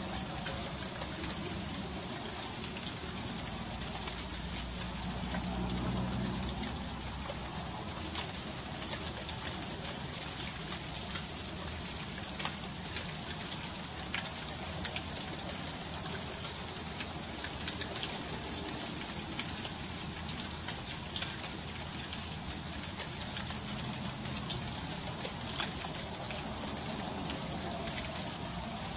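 Freezing rain falling in an ice storm: a steady hiss scattered with many small, sharp ticks of drops and ice striking surfaces.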